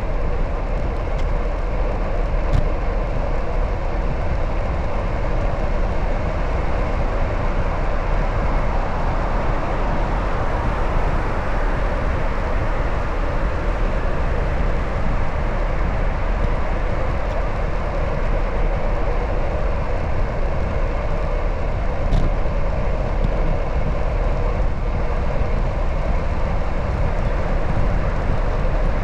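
Steady rushing wind and rolling noise from riding a bicycle, with a deep rumble of wind on the microphone and a couple of faint clicks.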